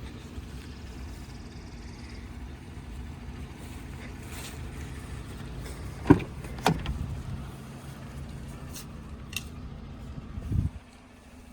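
Pickup truck idling steadily, with two sharp clunks a little past halfway and a heavier thump near the end, after which the low hum drops away.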